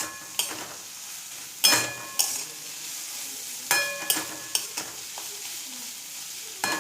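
Onion and garlic sizzling in hot oil in a kadai. A spatula stirs them, knocking against the pan in a few ringing clinks every couple of seconds.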